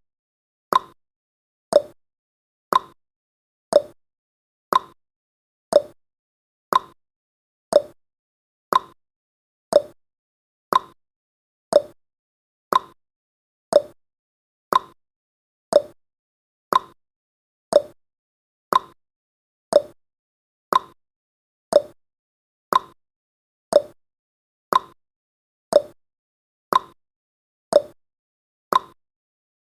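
Clock-style ticking sound effect of a countdown timer: short sharp ticks, steady at about one a second, marking the seconds as the timer counts down.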